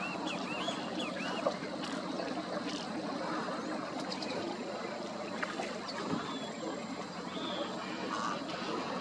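Many birds calling at once in a dense, steady chorus. In the first second there are several short curling whistled notes, with scattered chips later, all over a steady low hum.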